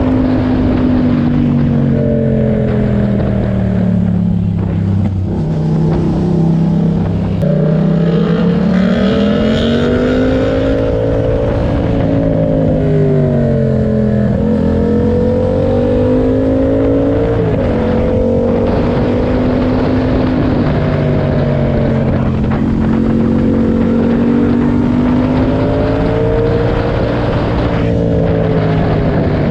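Yamaha MT-07's 689 cc parallel-twin engine through an aftermarket SC-Project track exhaust with its dB killer fitted, its revs repeatedly rising and falling as the bike accelerates, shifts gear and slows, over a steady hiss of wind and road noise.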